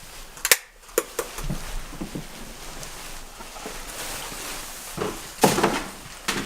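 A sharp click, like a light switch, about half a second in, then a few small knocks. A louder clatter comes about five and a half seconds in.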